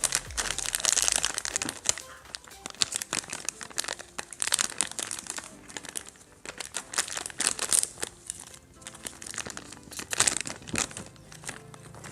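Plastic snack bag crinkling in a series of irregular crackles as it is handled and torn open, with music playing underneath.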